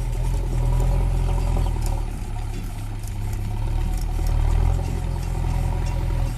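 Mahindra 575 DI tractor's four-cylinder 2730 cc diesel engine running steadily, its level swelling slightly twice.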